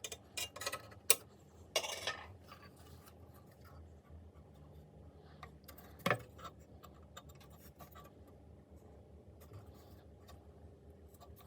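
Scrapes and sharp clicks of small parts and tools being handled, several in the first two seconds and a single sharp click about six seconds in, then faint rubbing.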